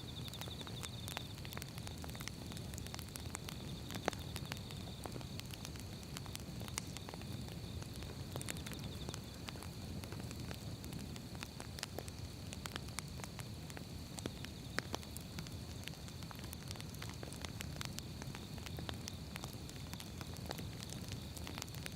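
Firewood burning: a low steady rush of flame with frequent sharp, irregular pops and crackles from the logs. A faint, steady high whine runs underneath.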